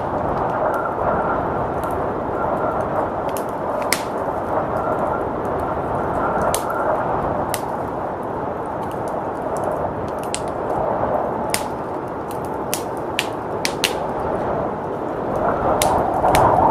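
Wood fire crackling with scattered sharp pops over a steady rush of blizzard wind, which swells in a gust near the end.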